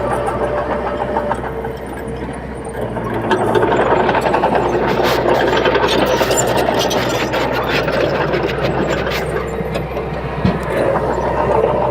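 Crawler bulldozer's diesel engine running steadily, working harder through the middle with a spell of clanking and rattling, and a single sharp knock near the end.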